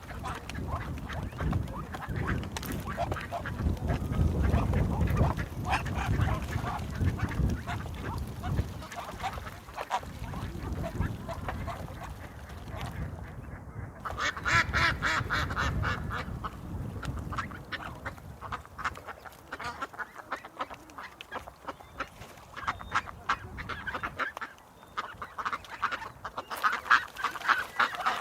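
Ducks quacking in quick runs, loudest about halfway through and again near the end, over a low rumble in the first third.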